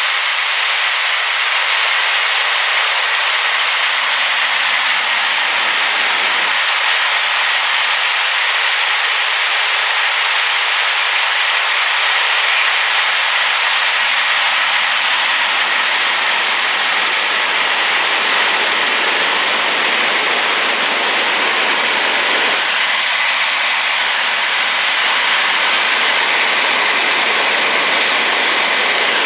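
Waterfall swollen and muddied by rain, running full as a loud, steady rush of falling water, with little low rumble.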